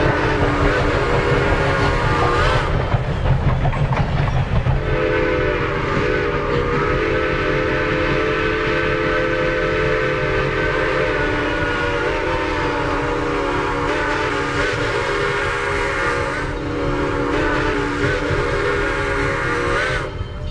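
Southern Railway No. 4501, a Mikado steam locomotive, blowing its steam whistle in three blasts over the steady rumble of the moving train. The first blast stops about two and a half seconds in, a long blast of about twelve seconds follows, and a shorter one ends just before the close.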